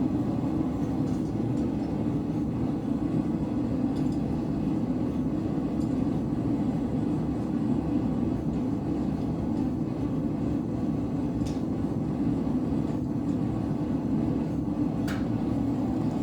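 Blacksmith's forge running, a steady loud rushing noise, with a couple of faint clicks.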